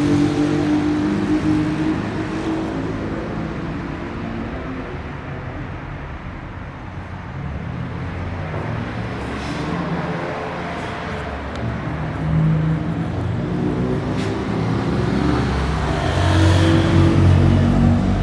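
Street traffic: cars passing, with a swell about two-thirds of the way through and again near the end.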